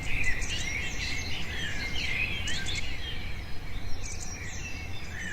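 Birdsong ambience: many small birds chirping and twittering in quick overlapping notes, over a low steady background noise.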